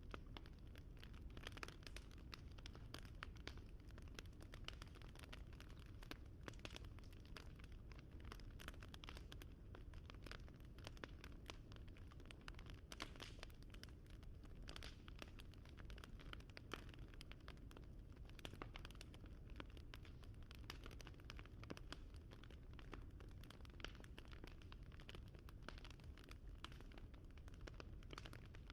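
Fire crackling: a low, steady rumble with frequent small pops and snaps scattered irregularly throughout.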